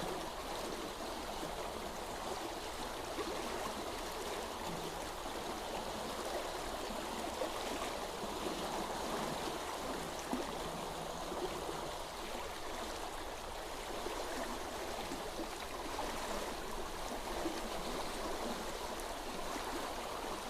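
A stream of flowing water, an even, steady rush of running water with no breaks.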